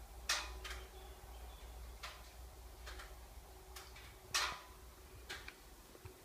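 Subaru Levorg clicking with the engine switched off: a series of sharp, irregularly spaced clicks, about eight in all, the loudest about four seconds in, over a faint low hum. The clicking comes ten minutes or more after the engine has been turned off.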